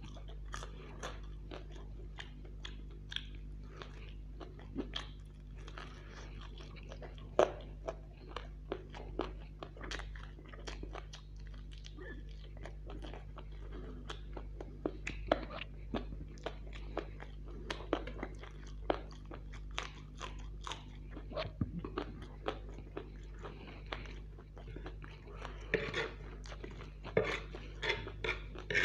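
A man chewing and crunching fried chicken leg and chow mein noodles close to the microphone: a steady run of small crisp crunches and wet mouth clicks at irregular spacing, the loudest crunch about seven seconds in.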